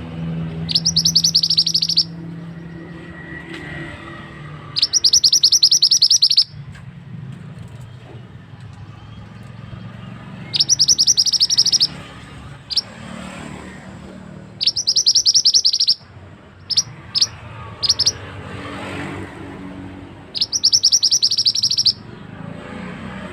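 Mantenan songbird singing loud, rapid chattering phrases of more than a second each, about every four to five seconds, with a few short single notes between them near the end. A steady low background noise runs underneath.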